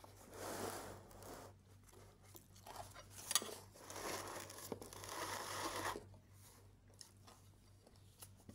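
Chewing salad with crunchy fried bread cubes: two spells of crunching, the second one longer and broken by a few sharp cracks.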